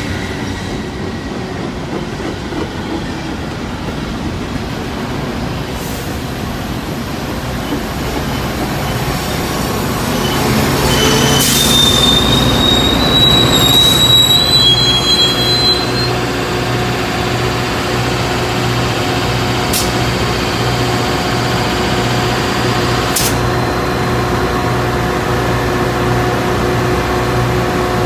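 Metra bilevel commuter train rolling slowly along the platform and coming to a stop, with a high wheel or brake squeal that rises slightly for a few seconds about halfway through. After that, the diesel locomotive at the rear of the train runs with a steady low drone.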